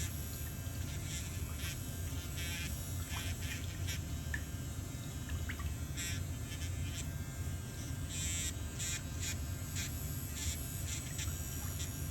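Short, irregular scraping strokes over a steady low hum, as tools work on a thickened, fungus-affected toenail.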